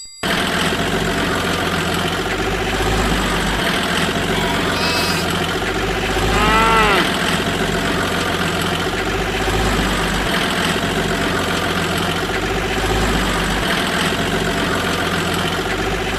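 Steady motor running noise with a low hum, and a brief rising-and-falling call about six and a half seconds in.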